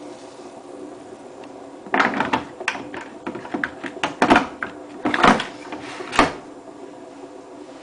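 Washing machine's plastic detergent drawer being handled: a run of clicks and rattles with three louder knocks, the last as it is pushed shut, over the steady hum of the machine.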